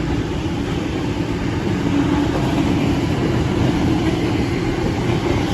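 Electric suburban passenger train running along the platform, a loud steady rumble of wheels and motors.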